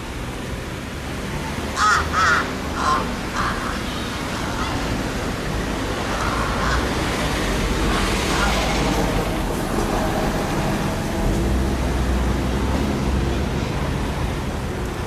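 Juvenile large-billed crow practising its calls: four short caws in quick succession about two seconds in, then fainter calls a few seconds later, over a steady low rumble.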